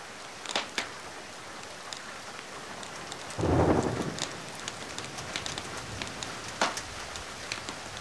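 Steady rain hissing, with a few sharp crackles from a wood fire and a brief loud low burst about three and a half seconds in that fades within a second.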